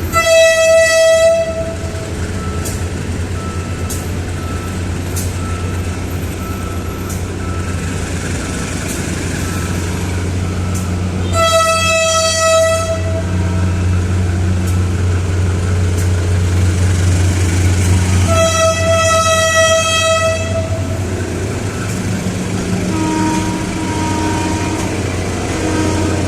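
Diesel train horn sounding three blasts, each one and a half to two seconds long: one at the start, one about eleven seconds in and one about eighteen seconds in. Under them the low, steady running of the train's diesel engine.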